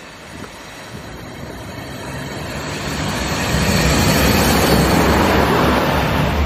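Diesel-hauled passenger train approaching and going by, growing steadily louder over the first four seconds and then running loud and steady. A low engine drone sits under the rush of wheels on rail.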